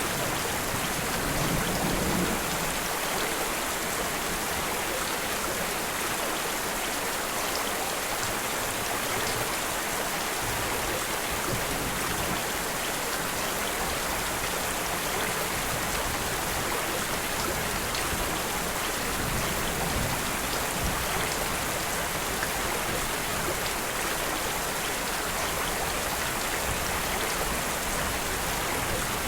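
Steady, dense rainfall hissing evenly, with a low rumble fading out in the first couple of seconds.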